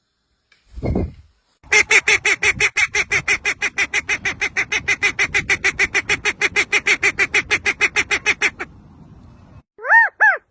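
An animal calling in a rapid, even run of pitched honk-like notes, about seven a second for some seven seconds, after a low thump about a second in. Near the end, short calls that rise and fall in pitch begin.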